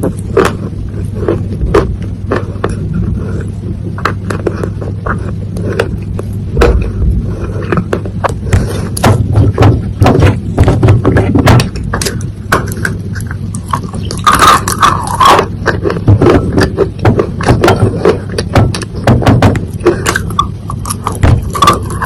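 Close-miked chewing of dry soil mixed with water: dense, irregular crunching and crackling clicks, over a steady low hum.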